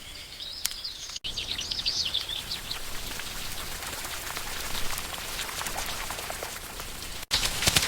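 Steady rain falling, with birds chirping for the first couple of seconds. Near the end a louder run of sharp taps begins.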